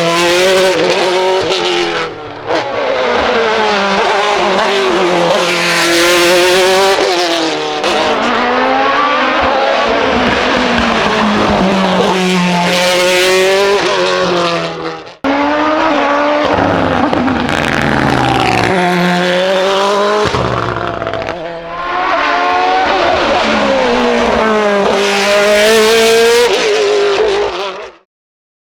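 Hill-climb race car engine revving hard, its pitch climbing and dropping again and again through gear changes and lifts for corners. There is an abrupt break about halfway, and the sound cuts off suddenly shortly before the end.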